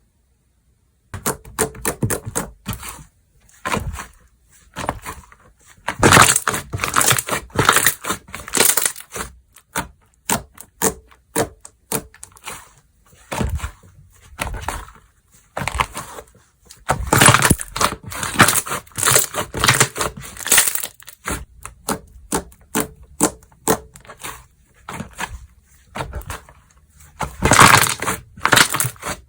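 Slime being pressed, squished and stretched by hand, giving off dense crackling and popping clicks. It is silent for about the first second, then comes in bursts that swell and fade, the loudest a few seconds in, in the middle and near the end.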